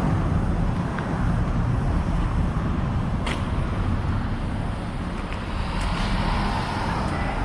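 Road traffic on a busy city street: vehicle engines running and tyre noise as a steady rumble, with a sharp click about three seconds in.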